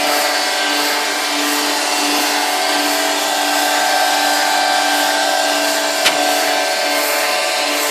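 Truck-mounted concrete pump running steadily while pumping concrete, a whine of several steady tones over a hiss, with one sharp click about six seconds in. The pump has an extraneous noise in its operation, pointing to a fault.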